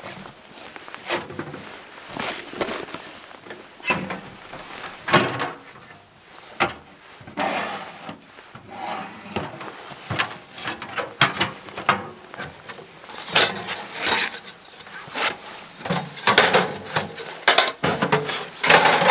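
Gear being unpacked and handled: irregular knocks and clacks with rustling between them, getting busier in the last few seconds.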